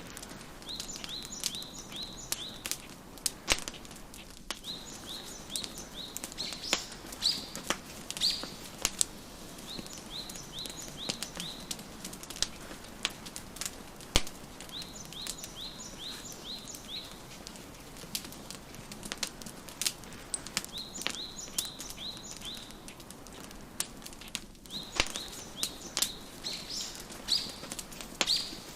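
Wood fire crackling with irregular sharp pops, over songbirds chirping in quick runs of short high notes that come every few seconds.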